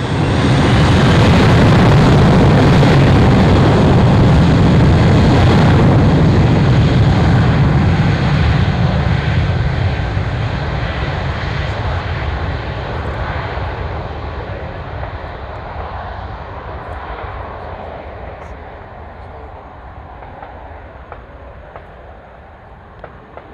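Aircraft engines at takeoff power during a takeoff run: a loud rumble that comes in sharply, holds for several seconds, then fades steadily as the aircraft climbs away.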